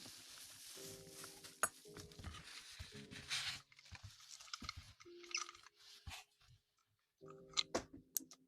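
Close-miked ASMR rustling and crinkling with scattered sharp clicks, dense for the first three and a half seconds, then thinning to sparser ticks and short scratchy bursts.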